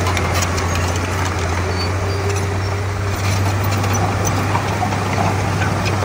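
Komatsu D31P bulldozer's diesel engine running steadily with a constant low hum, with a few scattered clicks over it.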